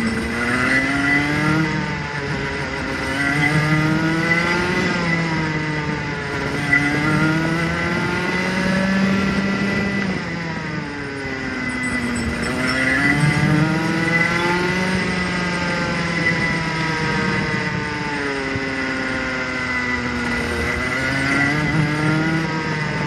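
Rotax Junior Max 125 single-cylinder two-stroke go-kart engine running on track. Its pitch rises and falls over and over as the kart laps. The engine is being run in, held between about 6,000 and 10,000 rpm.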